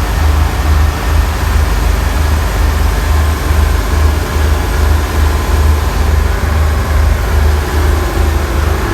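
Loud, steady drone of a ship's machinery running, with a deep hum that throbs at a regular, even beat.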